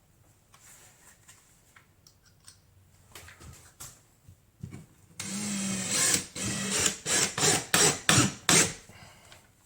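Power drill running for about a second, then in several short trigger bursts, two to three a second, as when driving a screw home to fix a drywall patch to its backing board. A few light knocks come before it.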